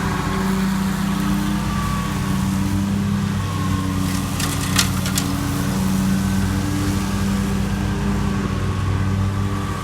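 Riding lawn mower engine running steadily under load while mowing. A quick cluster of sharp clicks comes about halfway through.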